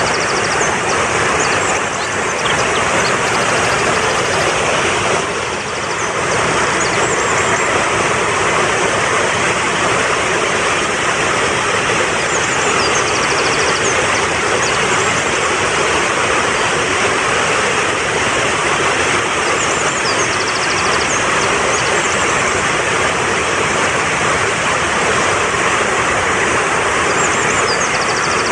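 Fast-flowing mountain stream rushing steadily over rocks, with faint, short, high bird chirps breaking through a few times.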